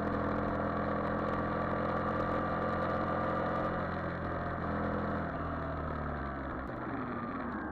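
Yamaha Virago XV400 V-twin engine running at steady revs while riding, then the revs drop about five seconds in.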